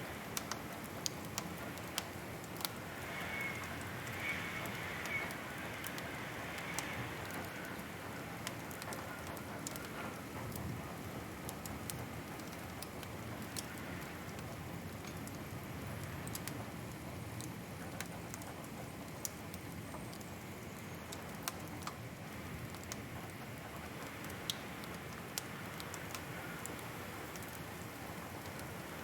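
Wood fire crackling, with irregular sharp pops and snaps over a steady soft hiss, and a faint high whistle a few seconds in.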